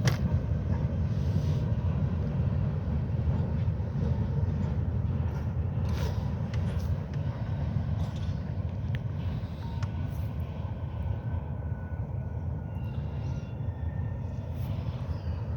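Wheeling & Lake Erie freight train rolling past: a steady low rumble with occasional clicks, slowly easing off.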